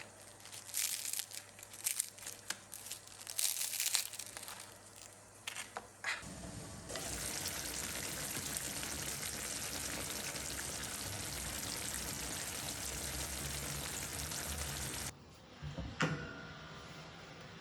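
Kitchen handling noises, rustling with scattered clicks and knocks. Then a kitchen tap runs into the sink in a steady stream for about nine seconds and is shut off abruptly, followed by a single click.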